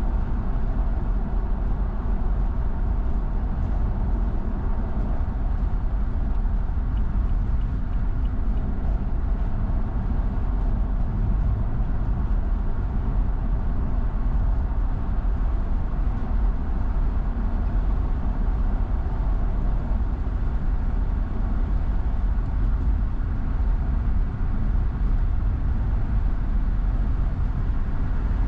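Car driving at steady speed: continuous tyre and engine rumble, heaviest in the low end, with no changes or sudden events.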